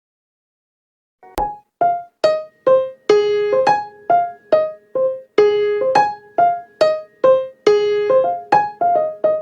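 Silence for about a second, then a simple melody of single notes on a piano-like keyboard, about two notes a second, each note ringing briefly and fading, the notes coming a little quicker near the end.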